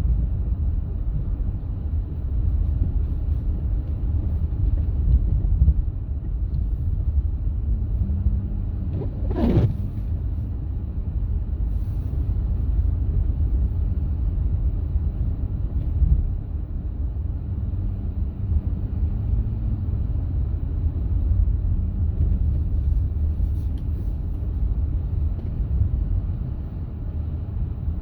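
Steady low rumble of a vehicle, with one brief sharp sound about nine seconds in.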